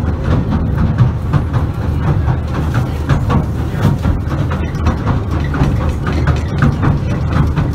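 Pier train running along the track, heard from inside the carriage: a steady low rumble with frequent irregular clicks and rattles from the wheels and the car.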